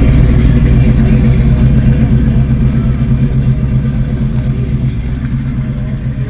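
A car engine running loud and steady with a low-pitched note, slowly getting quieter.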